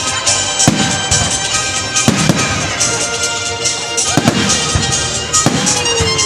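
Fireworks display: repeated shell bursts, several a second at times, over continuous crackling, with music playing alongside.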